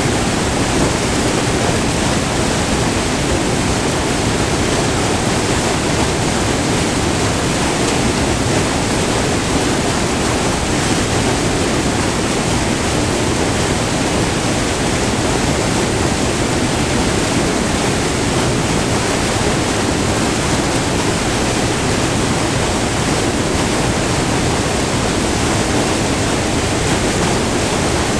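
White water pouring over a short multi-tiered river waterfall, heard up close as a loud, steady rush.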